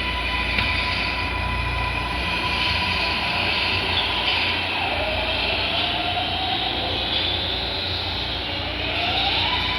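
MARTA rapid-transit train running, a steady rumble and rail noise under an electric motor whine that glides up in pitch and levels off near the end as the train picks up speed.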